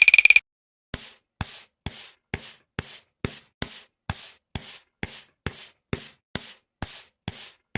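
A brief fast rattle with a high ringing tone at the start, then steady, evenly spaced scraping strokes, about two a second, each beginning with a sharp click.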